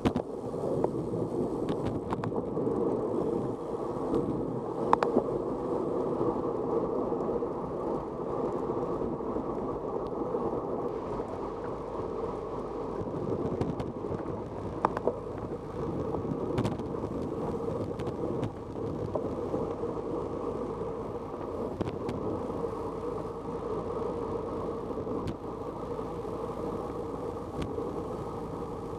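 Steady, muffled rushing and rumbling of wind and rolling noise while moving, with a few short knocks or clicks.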